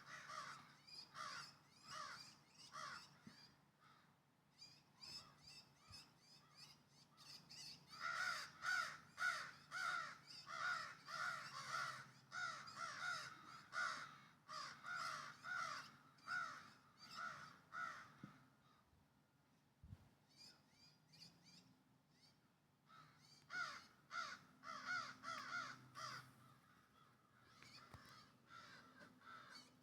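A young bird calling over and over, two to three calls a second, in runs of several seconds with short pauses between them.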